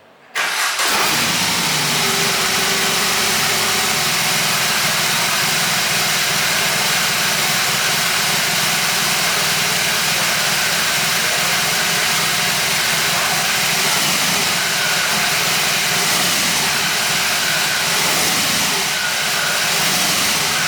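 BMW R 18 Transcontinental's 1802 cc boxer twin idling steadily and loud, close to its exhaust; the sound comes in abruptly about half a second in.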